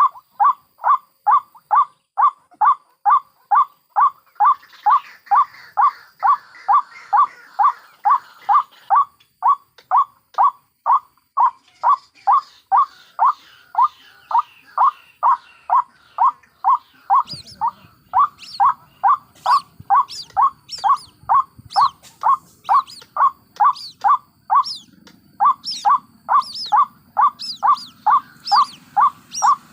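White-breasted waterhen calling over and over in an even rhythm, about two short calls a second. From about halfway in, higher, thinner calls join the rhythm, matching the chicks mixed into this lure recording.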